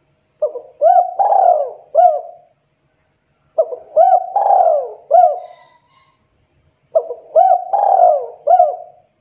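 Spotted dove (tekukur) cooing: three phrases about three seconds apart, each a quick run of several coos. It is a lure call used to draw in wild doves.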